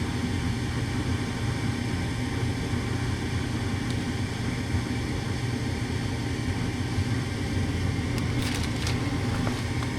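Gas furnace's draft inducer motor running with a steady drone while the burners fail to light: the freshly replaced gas valve does not open, which the technician puts down to air still in the gas line. A few faint ticks come near the end.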